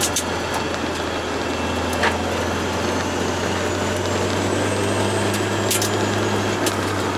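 Turbocharged Toyota AE86 Corolla driving at a steady, even drone with no revving, a few short sharp clicks or knocks over it. A faint high whine comes in about the middle and fades away.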